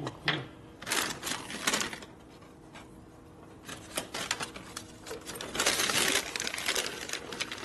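Loose metal bolts and hardware clinking and rattling as they are handled and sorted through, with scattered sharp clicks and a denser stretch of clattering near the end.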